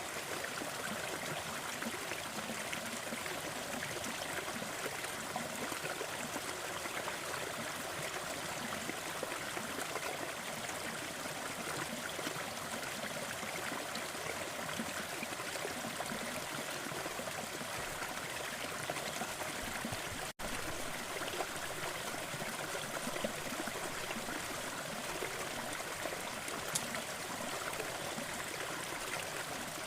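Crackling fire with small scattered pops over a steady, even rushing noise. The sound cuts out for an instant about two-thirds of the way through.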